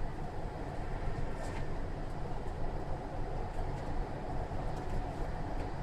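Siemens VAL 208 NG2 rubber-tyred automated shuttle running, heard from inside the car: a steady low drone with hiss. A couple of faint ticks sound about a second and a half in and again near the end.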